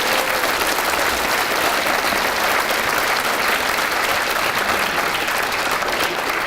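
Concert audience applauding steadily after a choir's song, the clapping tailing off just after the end.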